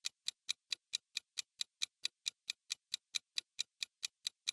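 Steady, fast clock-like ticking, about four to five ticks a second: a quiz countdown timer sound effect running while the answer time elapses.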